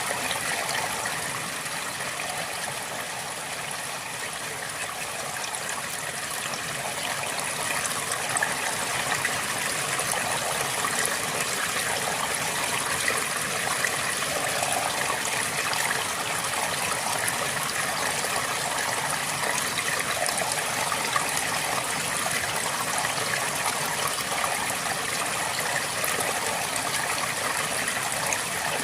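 River water flowing steadily over rocks, a continuous rush with fine splashing and trickling; it dips slightly in level a few seconds in.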